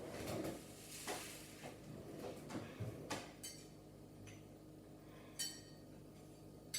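Kitchen dishes and utensils being handled: bumping and scraping for the first few seconds, then a few separate ringing clinks.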